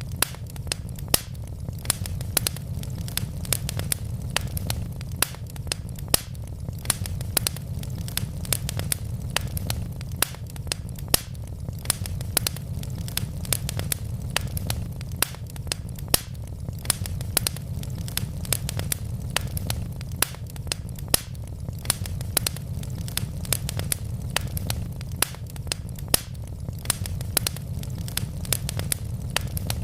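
Wood fire burning in a fireplace: a steady low rumble of the flames with many sharp crackles and pops from the logs, several a second.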